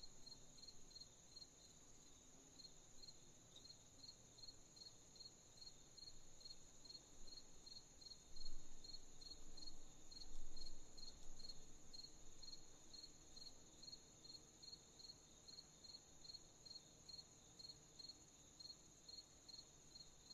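Crickets chirping at night: a steady high insect trill under a rhythmic chirp repeating about twice a second. A low rumble swells up briefly twice around the middle.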